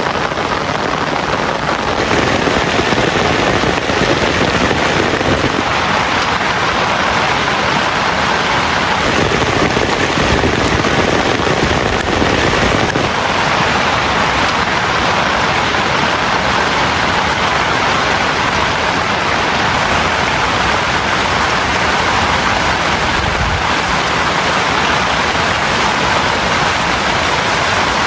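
Heavy rain falling in a downpour: a loud, steady, dense hiss that holds even throughout.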